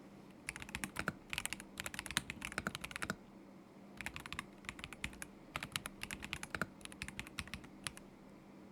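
Typing on a Kzzi K75 Pro mechanical keyboard with Moment linear switches: quick runs of key clicks in two bursts, pausing for about a second between them.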